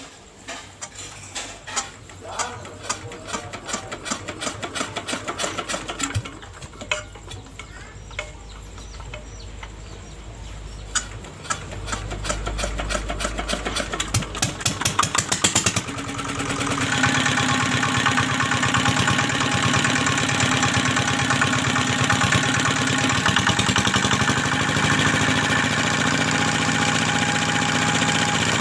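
Diesel engine starting: irregular clicks and knocks, then a fast ticking that speeds up, and from about sixteen seconds in the engine runs steadily and louder.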